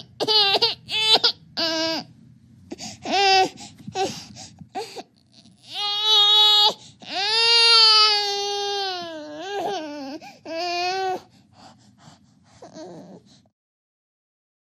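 A baby crying: a string of short wails, then longer drawn-out wails that waver in pitch, dying away about thirteen seconds in.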